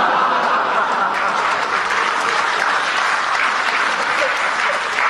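Audience applauding steadily after a punchline, with some laughter in it.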